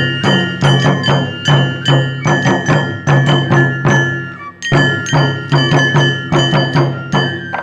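Japanese traditional festival performance music: rapid drum strokes together with ringing metal percussion, the metallic tones sustaining between hits, with a brief pause about four and a half seconds in.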